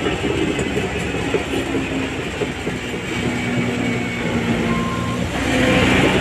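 Shantui DH17C3 crawler bulldozer running, its diesel engine working with a steady rattling clatter of steel tracks; the sound grows louder about five seconds in.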